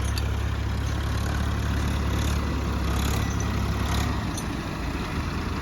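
Diesel tractor engine running hard with a deep, steady drone, straining under a heavy pull; the low drone drops away about four seconds in.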